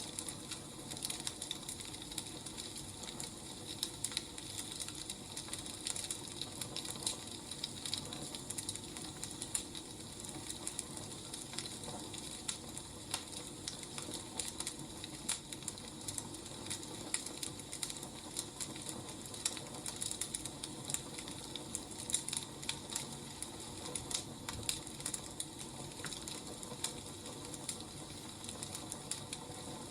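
Wood fire crackling: irregular snaps and pops over a steady hiss.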